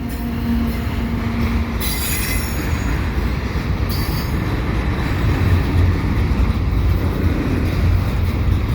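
Freight train rumbling closer behind a CP ES44AC diesel locomotive, growing slowly louder. Brief high-pitched wheel squeals sound about two and four seconds in.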